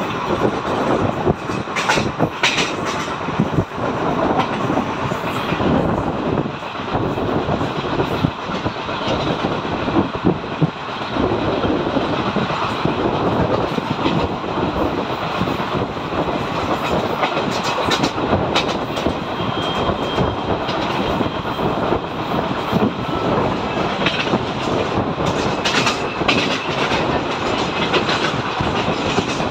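Indian Railways passenger coach of the Triveni Express running at speed, heard from its open window: a steady loud rumble of wheels on the track, with irregular rattles and clatter over the rail joints.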